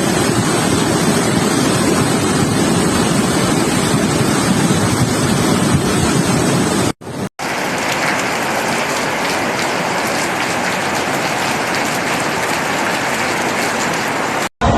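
Heavy rain pouring down as a loud, steady hiss. It cuts out for a moment about seven seconds in, then carries on.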